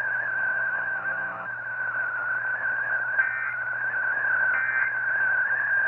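Weather radio audio between announcements: a steady, slightly wavering high whistle over a low hum, with three short bright chirps in the second half.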